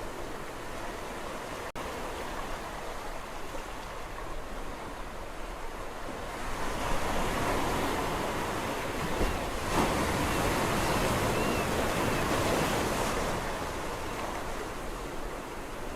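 Sea surf washing onto a shore. The steady wash swells into a louder breaking wave from about six seconds in, then eases off again after about thirteen seconds. A split-second dropout comes about two seconds in.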